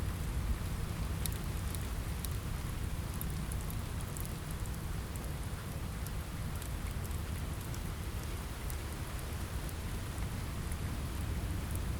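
Steady rain on a window with a low rumble underneath, and scattered faint sharp crackles from a wood fire in a fireplace.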